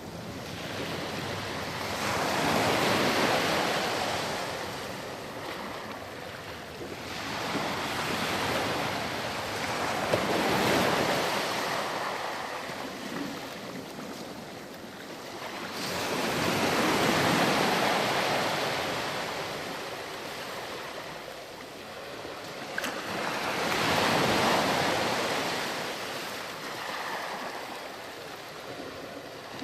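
Ocean surf on a sandy beach: waves breaking and washing up the shore, swelling and fading in slow surges every several seconds.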